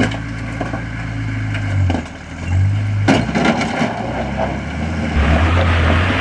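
A Nissan Patrol GU 4x4's engine pulling at low revs as it crawls up a steep rock step, with tyres crunching over rock about three seconds in. About five seconds in the engine note deepens and grows louder as it takes the load of the climb.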